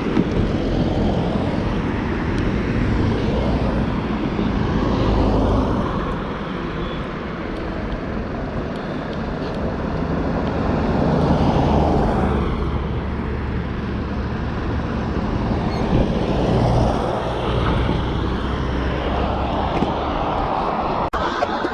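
Road traffic noise: a continuous rumble of vehicles that swells and fades several times, as if vehicles are passing.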